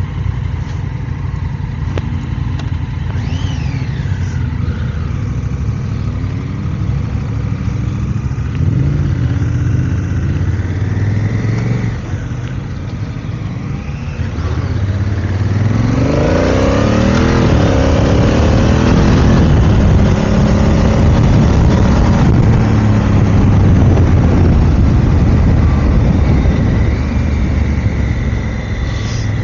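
Motorcycle engine running on the move, with the revs rising in several sweeps about halfway in and the engine pulling harder and louder after that.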